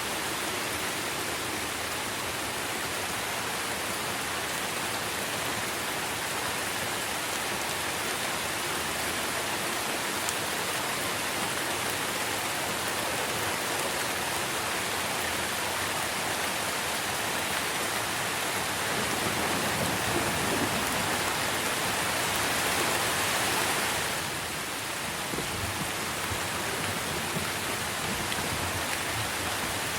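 Steady rain falling on trees, an even hiss of drops. It swells louder for a few seconds about two-thirds through, then falls back.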